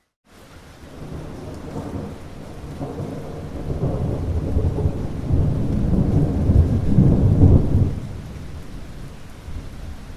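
Rain with a long rolling rumble of thunder that builds over several seconds, is loudest about three quarters of the way through, then fades. The sound drops out for a moment at the very start.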